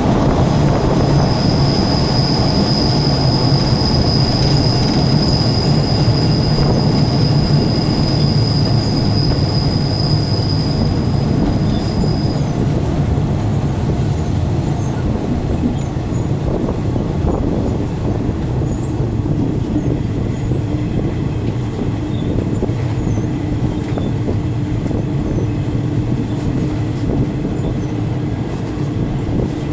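Passenger train running along the track, a steady loud rumble of wheels and carriage heard from inside a coach, with a high, steady wheel squeal for about the first ten seconds that then stops.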